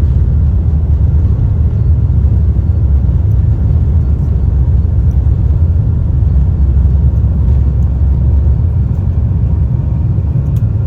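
Cabin noise of a Boeing 777 during takeoff: the engines at high thrust give a loud, steady, deep rumble.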